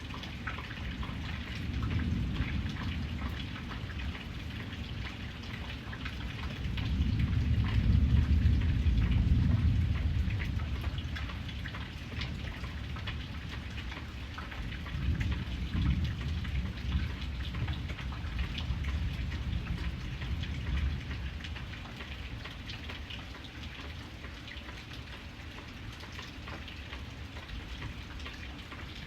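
Steady rain, with many small drops ticking on a surface. Low rumbles swell and fade under it, the loudest about a quarter of the way in and another just past the middle.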